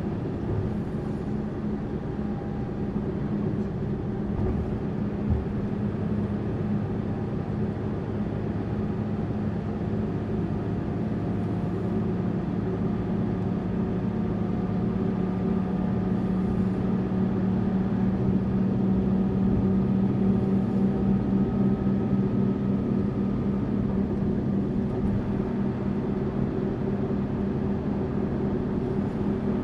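Tourist bus running on the road: a steady engine drone with road noise, growing a little louder around the middle and then easing back.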